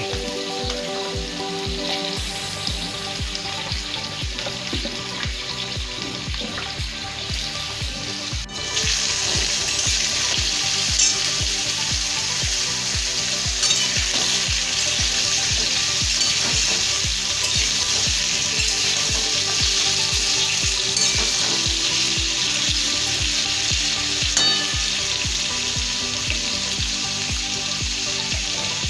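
Diced potatoes frying in hot oil in a wok, a steady sizzle, with a wooden spatula stirring them now and then. The sizzle grows louder about eight seconds in.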